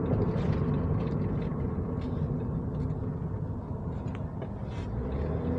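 Suzuki Solio driving along at steady speed: a steady low rumble of engine and tyre noise on the road.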